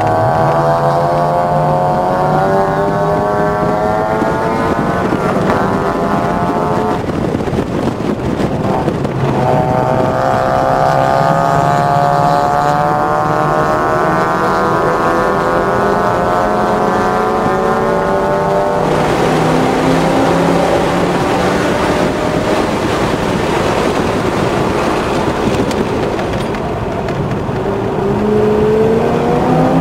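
2006 Corvette's LS2 V8 heard from inside the cabin, pulling up through the revs under acceleration. It eases off about seven seconds in, pulls up again for about ten seconds, and drops away as the car slows. It begins to rise again near the end, over steady tyre and road noise.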